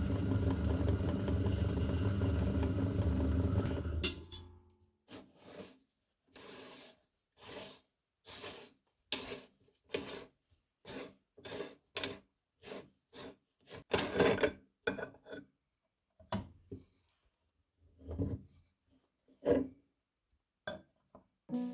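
Meat grinder's motor running with a steady hum, switched off about four seconds in and winding down. A long run of short scraping strokes follows, roughly one every second or less, some louder than others.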